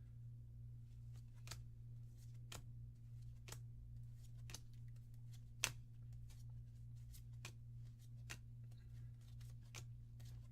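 Trading cards being handled one at a time, each card giving a short sharp click about once a second, one click much louder about halfway through, over a steady low electrical hum.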